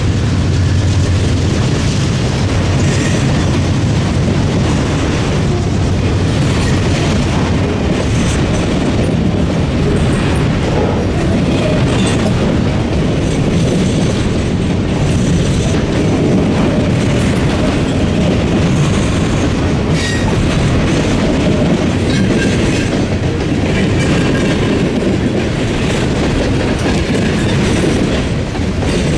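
A train rolling past at close range, its steel wheels clattering steadily over the rail joints and crossing diamond.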